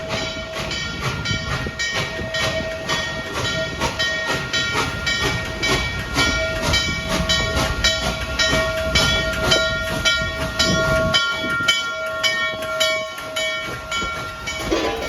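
Steam excursion train hauled by Norfolk and Western 611 rolling into the station, its wheels clicking steadily over the rail joints at about three clicks a second. A few steady high tones ring over the clicks, and the low rumble drops away about eleven seconds in.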